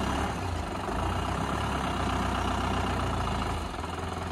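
Jeep engine running steadily at low revs, dropping slightly in level about three and a half seconds in.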